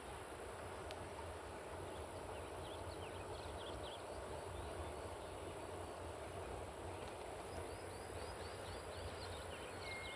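Tropical outdoor ambience: birds giving runs of short, quick chirps, one run about a third of the way in and a longer, faster run near the end, over a steady high whine and a steady background hiss.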